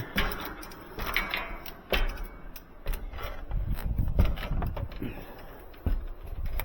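Irregular knocks, thumps and rustling of someone moving about and handling things, with a few sharp clicks.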